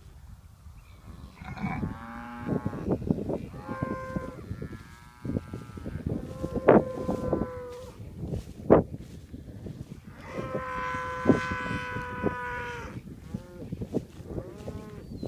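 Crossbred beef cows and calves mooing, about five drawn-out calls one after another, the longest near the end. Two sharp clicks cut in around the middle and are the loudest sounds.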